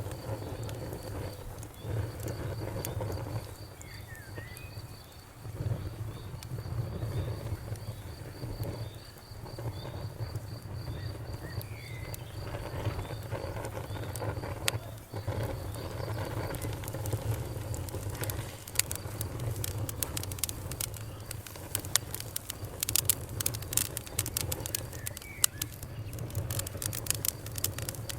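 Wood fire burning with a steady low rumble and sharp crackles and pops, sparse at first and coming thick and fast in the last third.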